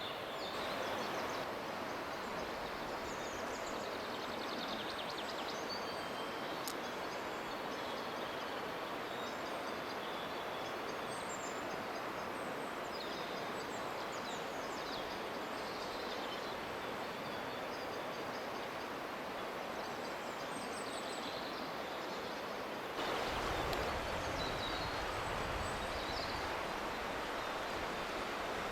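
Outdoor ambience: small birds chirping over a steady background hiss. About 23 s in, a low rumble comes in and the overall sound grows a little louder.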